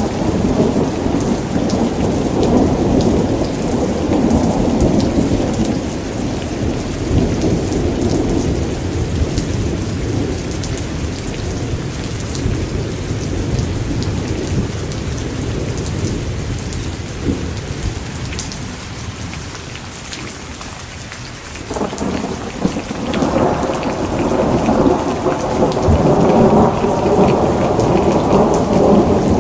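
Steady rain with rolling thunder: a long, deep roll slowly dies away over the first twenty seconds or so, and another rumble builds back in a little past twenty seconds.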